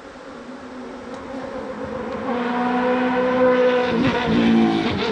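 Many agitated, defensive honeybees buzzing close around the microphone, a steady pitched hum that grows louder about two seconds in, with the pitch wavering as bees fly past.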